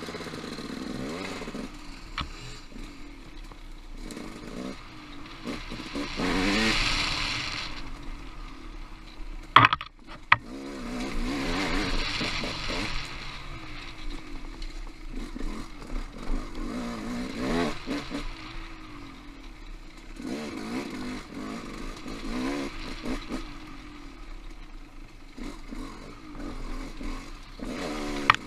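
Off-road motorcycle engine revving up and down over and over as it is ridden along singletrack trail, with the loudest surges about seven, twelve and eighteen seconds in. Two sharp knocks come about ten seconds in.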